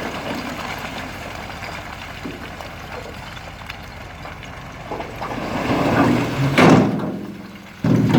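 Heavy construction machinery's diesel engine running, growing louder toward the end with a short loud rushing burst about two-thirds of the way in.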